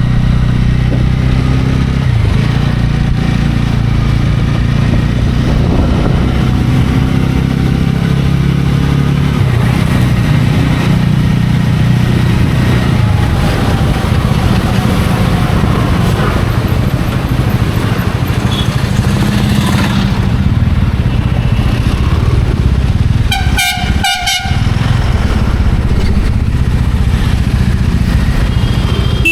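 TVS Ronin's single-cylinder engine running steadily under way, heard from the rider's position with road and wind noise. About 23 seconds in, a vehicle horn honks twice in quick succession.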